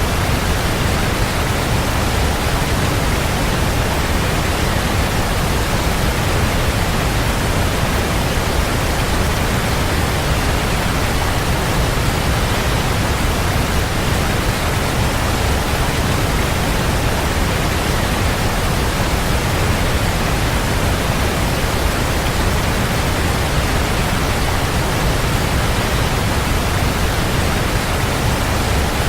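Waterfall: a steady, unbroken rush of falling water, full and heavy in the low end, with no change in level.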